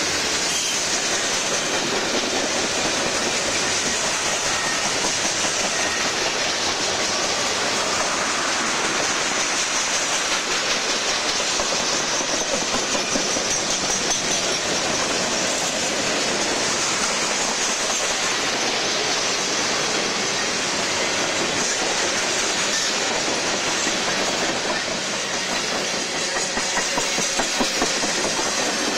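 Freight cars rolling past close by: steel wheels running over the rails in a steady, dense clatter with a broad rumble and hiss.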